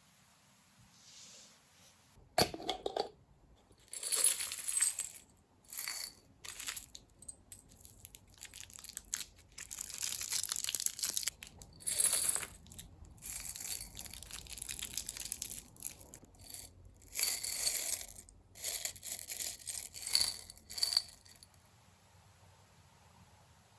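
Scratchy rustling and tearing noises in irregular short bursts, the loudest about twelve seconds in.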